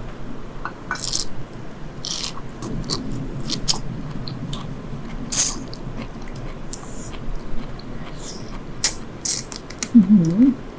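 Close-miked eating: wet chewing with many sharp clicks and crackles of biting into sea grapes and pickled crab. Near the end a short hummed voice sound.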